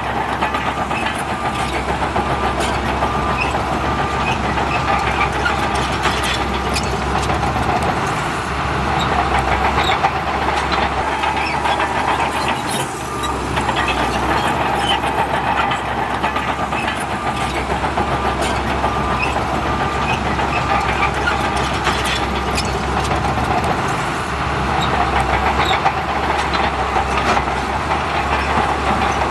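Diesel engine of heavy earthmoving machinery running steadily under work, with scattered metallic clanks and knocks. The level dips briefly around eight and thirteen seconds in.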